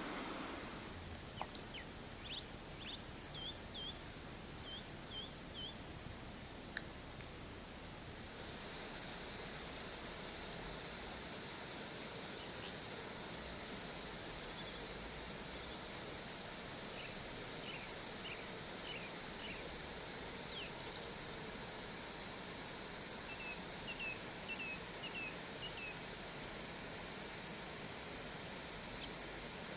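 Forest ambience: a bird calling in short runs of quick repeated chirps, a few times, over a steady rushing hiss. There is a single sharp click about a quarter of the way through.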